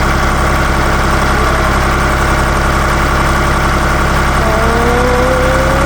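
Ditch Witch 5010 trencher-backhoe's three-cylinder air-cooled Deutz diesel running steadily, with a faint tone rising slightly in pitch near the end.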